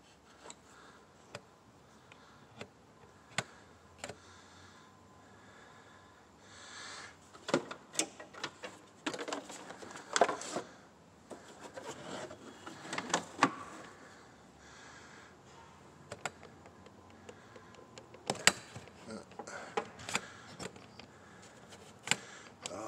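Metal hand tools (ratchet, socket extensions) clinking, clicking and scraping against metal in a V8 engine bay during a spark plug change, in irregular knocks and clatters that grow busier after about seven seconds.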